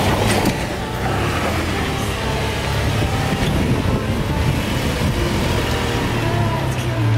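Toyota FJ Cruiser's 4.0-litre V6 engine running steadily as the 4WD crawls slowly up a steep, rutted dirt track, with a continuous low drone.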